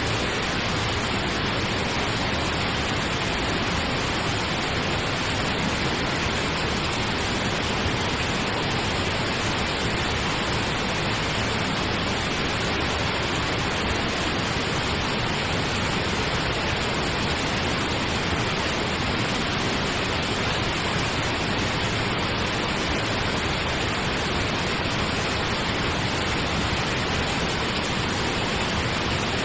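Steady pink noise: an even, unchanging hiss across all pitches, with no pauses or events.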